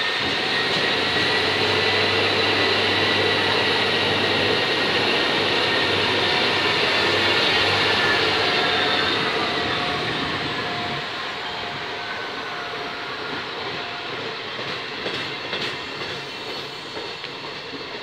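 Trenitalia regional train of passenger coaches moving along the platform, its wheels rolling with a thin high whine that slowly falls in pitch. The sound eases off after about ten seconds.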